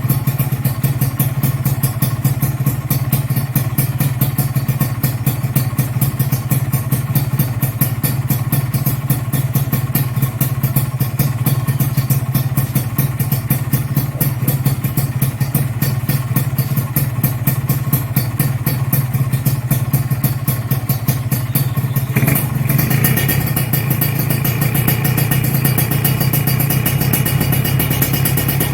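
Kawasaki Ninja RR's single-cylinder two-stroke engine running steadily at idle, with a rapid even beat. Near the end the sound shifts and a higher steady tone joins in.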